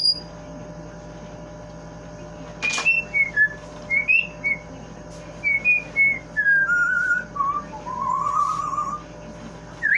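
Parrot whistling a string of short, clear notes that step down in pitch, ending in a lower warbling trill. There is a sharp click just before the notes begin, about three seconds in.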